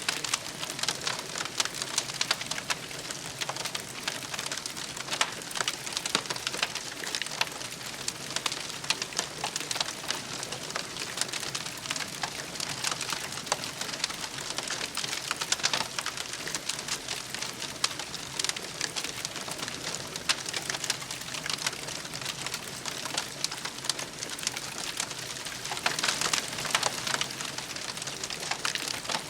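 Wood campfire crackling and popping, a dense run of small snaps over a soft hiss, busier for a couple of seconds near the end.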